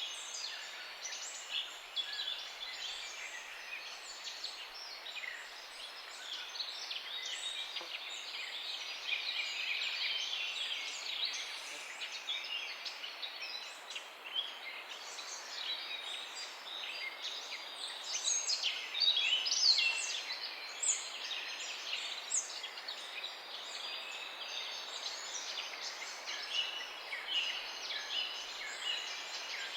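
Many small birds chirping at once, a dense chorus of short high calls and trills over a faint steady hiss, a little busier about two-thirds of the way through.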